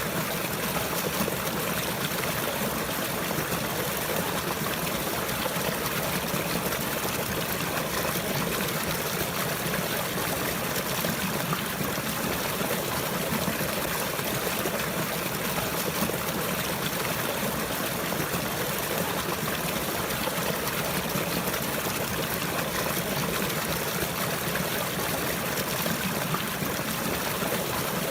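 Running water trickling and flowing steadily, like a small stream, with no break or change.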